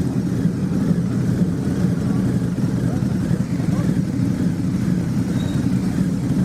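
Custom Harley-Davidson motorcycle engine running with a steady, fast-pulsing low rumble.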